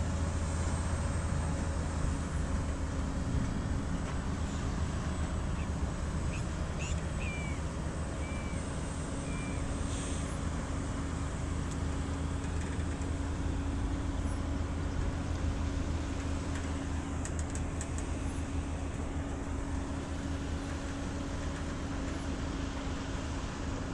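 Volvo heavy truck's diesel engine running steadily, an even low hum with a held tone and no rise or fall. A few short high chirps come about seven to nine seconds in.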